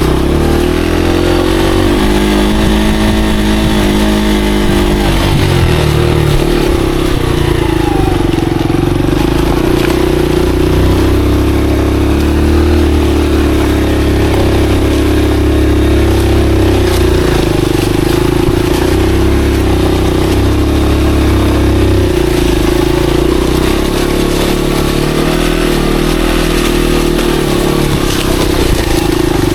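Monarch Axis 125 motorcycle engine running steadily as the bike is ridden along a dirt trail, its note shifting every few seconds with the throttle.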